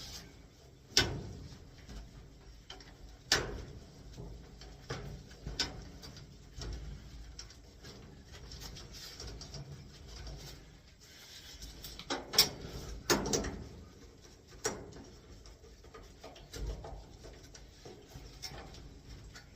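Sporadic sharp clicks and clanks of hand-tool work, with cutters snipping and metal parts knocking while the old air handler's lines and wiring are cut loose. The loudest knocks come in a cluster about twelve to thirteen seconds in.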